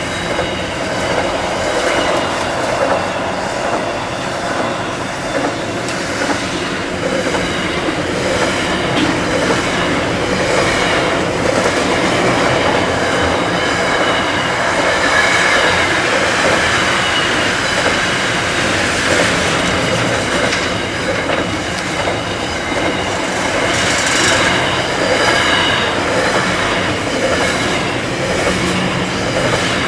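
Freight train wagons rolling past: a steady, loud rumble of steel wheels on the rails, with repeated clicks and a thin, high wheel squeal over it.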